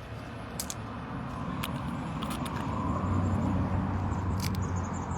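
A road vehicle passing on the street, its low rumble growing louder to a peak a little past the middle and then fading, with a few faint clicks on top.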